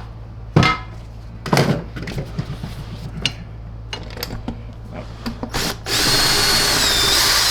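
A few sharp knocks of plastic parts being handled. About six seconds in, a power drill/driver runs for about two seconds, backing a screw out of the vacuum canister's housing. Its high whine dips in pitch near the end.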